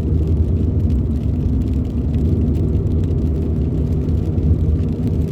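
Car running down the road, heard from inside the cabin: a steady low rumble of engine and tyres.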